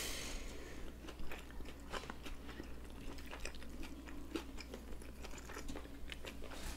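Two people chewing mouthfuls of sushi rolls, close to the microphone: many small, irregular wet clicks of the mouth and jaw.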